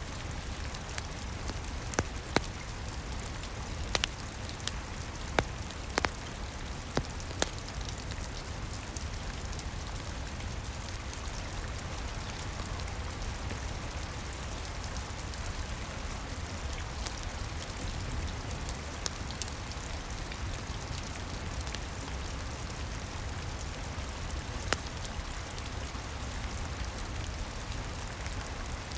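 Steady rain on a roof with the occasional sharp crackle and pop of a wood fire, a cluster of pops in the first several seconds and one more near the end.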